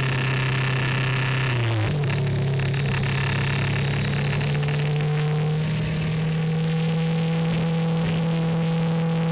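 Car engine running at a steady speed, recorded on board. Its note dips about two seconds in, then steps up and holds steady.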